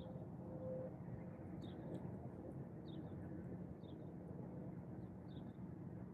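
A small bird giving short high chirps, about five of them a second or so apart, over steady low outdoor background noise.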